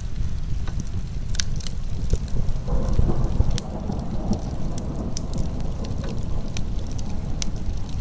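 Wood fire crackling with frequent sharp pops over a steady low rumble, mixed with heavy rain. A fuller rushing layer swells in for a few seconds about three seconds in.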